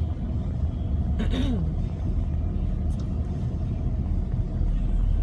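Steady low rumble of a car driving slowly over snow-covered road, heard from inside the cabin, with a brief falling sound about a second in.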